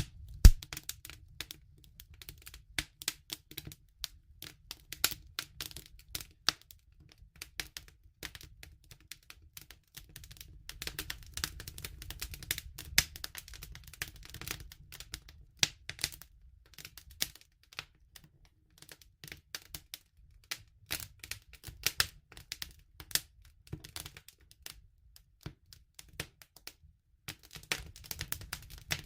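Wood fire crackling: irregular sharp pops and snaps, sometimes several a second, over a faint low rumble. The loudest pop comes about half a second in.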